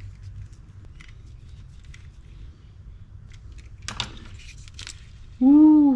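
Faint clicks and small metallic rattles as fishing-reel parts are handled, with a brief burst of rattling about four seconds in. Near the end comes a man's loud, gliding 'woohoo!' in two rising-and-falling whoops, cheering the reel running again.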